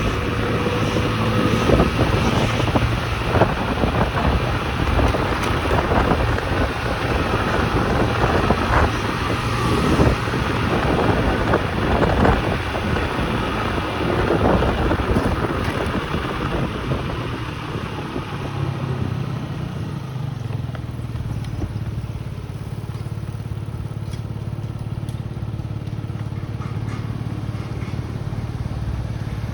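Small motorcycle engine running on the move, with rushing wind and road noise and scattered knocks over it. About two-thirds of the way through the noise drops away and the engine note becomes quieter and steadier.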